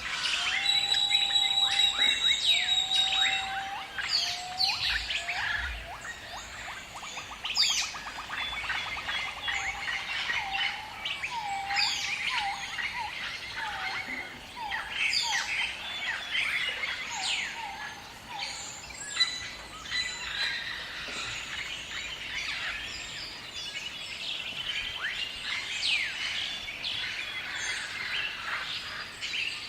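Several birds calling together in a busy chorus of whistles, sweeping chirps and trills. It is loudest in the first few seconds, where short held whistles and a high steady tone stand out, and a rapid buzzy trill comes in a few seconds later.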